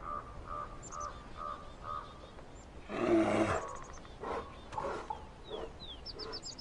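Wildlife calls: a run of short chirps in the first two seconds, one loud harsh call about three seconds in, then quick falling bird chirps near the end.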